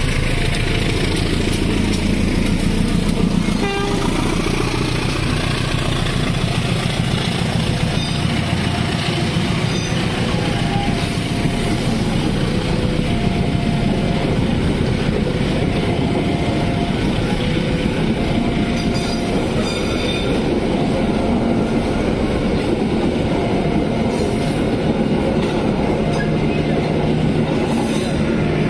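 KA Pandalungan passenger train running past the level crossing: a continuous rumble and clatter of the carriages and wheels on the rails. Over it, the crossing's warning alarm sounds a short tone that repeats every couple of seconds.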